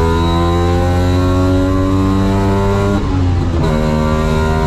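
Wartburg 353WR rally car's three-cylinder two-stroke engine pulling hard on a special stage, its revs climbing steadily. About three seconds in the revs drop briefly at a gear change, then climb again.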